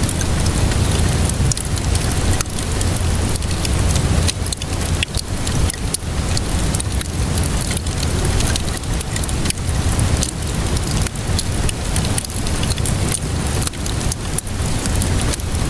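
Wood fire crackling with many small pops and snaps, layered over steady rainfall and a constant low rumble.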